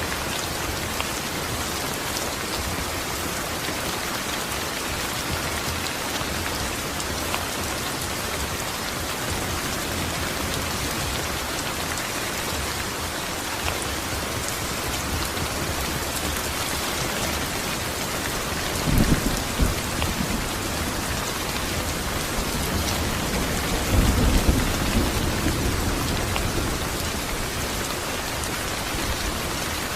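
Steady rain falling and pattering on surfaces, with two low rumbles of thunder about two-thirds of the way through, a few seconds apart, the second one longer.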